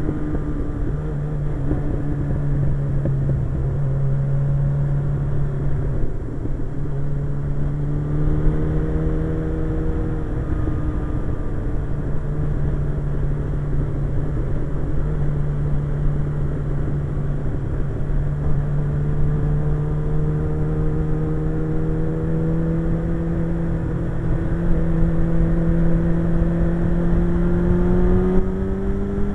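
Suzuki GSX-R 1100's inline-four engine running at steady road speed, its pitch climbing slowly over the second half as the bike gathers speed, then falling at the very end.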